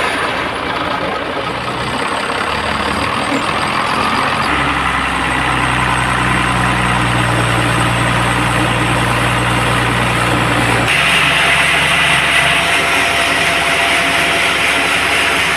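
Bandsaw sawmill's engine running steadily just after starting, its note shifting lower about four seconds in and brightening with a harsher, higher sound around eleven seconds in.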